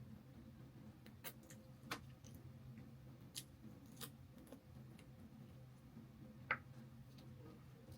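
Eating sounds from someone working through soft-fried chicken legs: scattered short clicks and small knocks, a few to a second at most, over a steady low hum.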